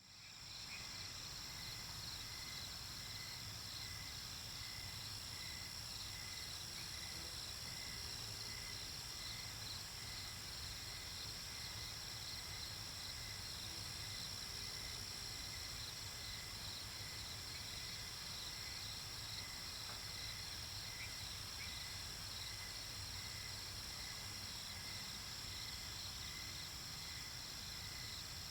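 Night-time nature ambience of crickets and other insects: a steady high trill with lower chirps pulsing about twice a second, fading in at the start.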